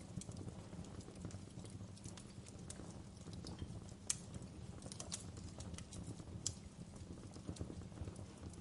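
Wood fire crackling in a fireplace: a steady low rumble of the flames with scattered sharp pops and snaps from the burning logs, two of them louder, about four and six and a half seconds in.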